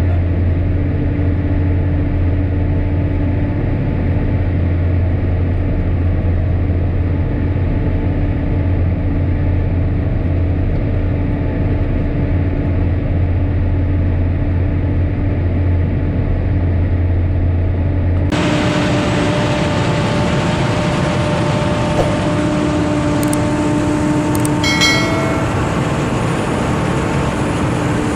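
Tractor engine running steadily with a strong low hum. About 18 s in the sound cuts abruptly to a brighter, noisier engine sound, with a short series of high beeps about 25 s in.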